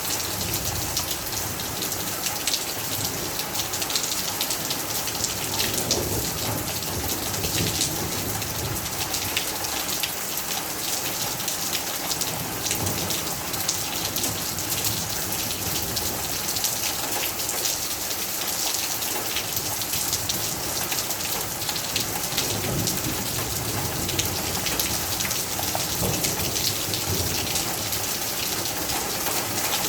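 Heavy rain falling steadily, drops pattering on hard surfaces, with a few low rumbles of thunder.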